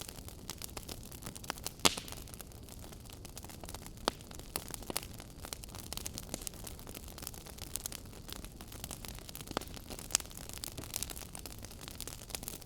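Wood fire crackling in a fireplace: irregular snaps and pops over a low steady rumble, with a sharper pop about two seconds in.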